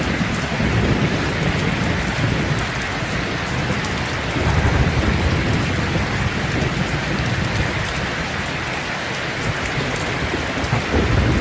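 Steady rain falling hard, with low rolling thunder rumbling underneath a few times: a rainstorm.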